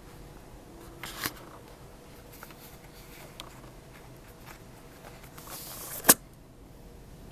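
Hand-handling noise from rubber tubing being pushed into a car door's window weatherstrip: rustling and light clicks, with a short rustle about a second in and a longer one near the end that finishes in one sharp click.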